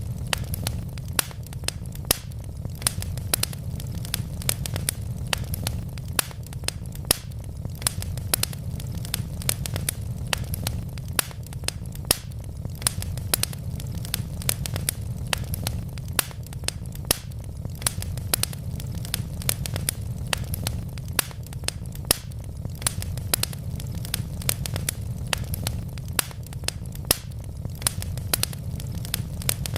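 Wood logs burning in a fireplace, crackling with many sharp pops, several a second, over a steady low rumble.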